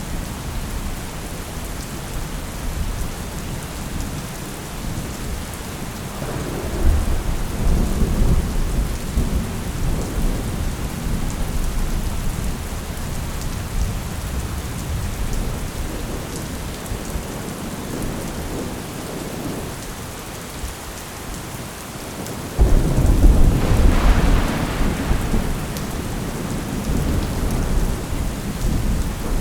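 Steady heavy rain with rolling thunder. A low rumble swells about six seconds in, and a sudden, much louder thunderclap breaks about three-quarters of the way through, then rumbles away.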